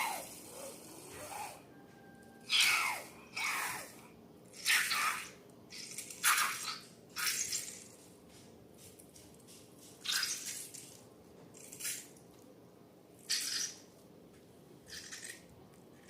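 Slime being squished and mixed by hand: a series of about ten short, wet squelches, a second or two apart.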